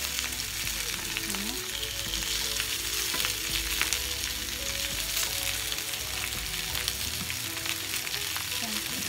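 Salmon fillets and sliced boiled potatoes sizzling steadily in olive oil in a ridged grill pan, with fine crackling spatter. A fork and spatula scrape and tap the pan now and then as the potato slices are turned.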